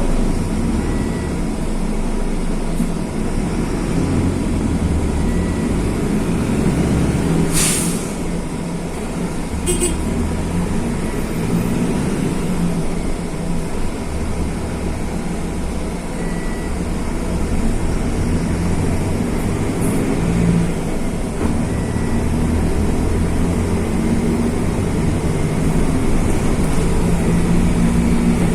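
Mercedes-Benz OF-1519 bus's OM-924 LA four-cylinder turbo-diesel engine running under way, its note rising and falling with the throttle. A short air hiss about eight seconds in.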